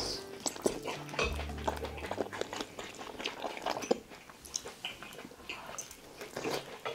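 Close-miked biting and chewing of soft, broth-soaked Korean fishcake (eomuk) pulled off a wooden skewer, with many small wet clicks and smacks of the mouth.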